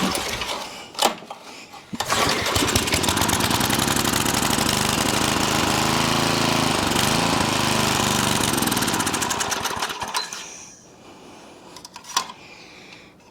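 Craftsman tiller's Briggs & Stratton small engine being pull-started: it catches about two seconds in, runs fast and loud for about eight seconds on gas poured straight into the carburetor, then dies away. A few sharp knocks come before it catches.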